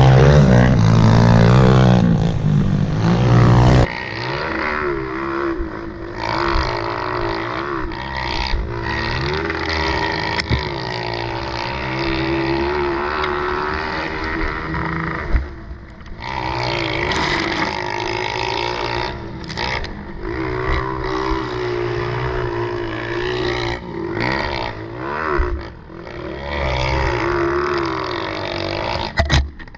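Small four-stroke pit bike engines revving up and down as riders lap a dirt track. The first few seconds are loud and close, then the engines sound further off, with the pitch rising and falling on the throttle and a couple of brief lulls.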